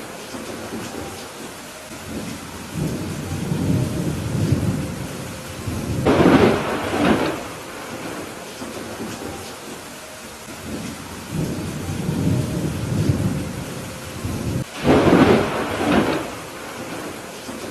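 Steady rain falling during a thunderstorm, with thunder rolling in low swells and two louder peals, one about a third of the way in and one near the end.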